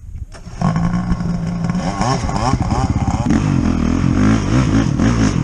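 Old ponpon-sen boat engine starting suddenly and running, its speed wavering for the first couple of seconds, then settling into a steadier, heavier run.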